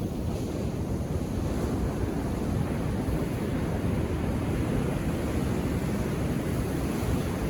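Ocean surf on a beach, a steady wash of waves with a deep rumble, mixed with wind on the microphone.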